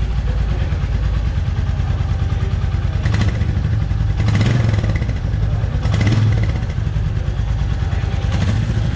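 Royal Enfield Meteor 350's 349 cc single-cylinder air-cooled engine idling with a steady low beat, the throttle blipped four short times in the second half. It runs smooth.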